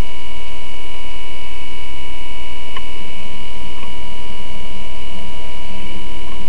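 Hummer rally car's engine idling while standing still, heard inside the cockpit as a loud, steady low rumble with several steady whining tones over it.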